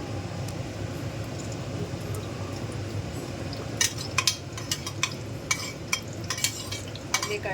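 Metal spoon clinking and scraping against a cooking pot and container in a quick run of sharp clicks from about halfway through, as ghee is spooned into the pot, over a steady low hum.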